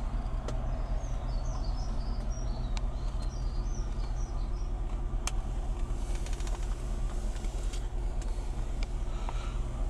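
Range Rover P38's 4.6-litre V8 idling steadily in park, heard from inside the cabin. Birds chirp outside from about a second in, and there are a few light clicks.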